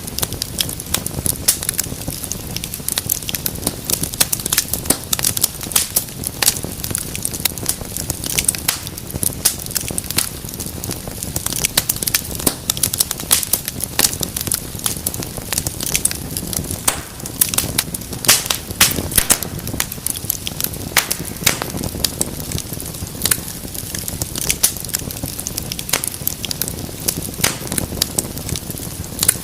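Wood fire burning in a fireplace: dense, irregular crackles and pops over a low, steady rumble of flame.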